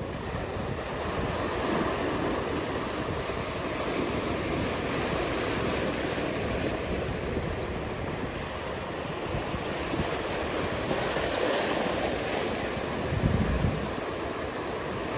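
Ocean surf breaking and washing, with wind buffeting the microphone and a brief louder low gust near the end.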